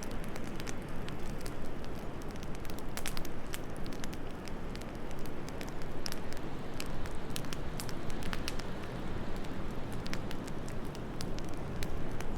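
Wood fire in a fireplace crackling, with irregular sharp pops and snaps, over a steady low rush of wind.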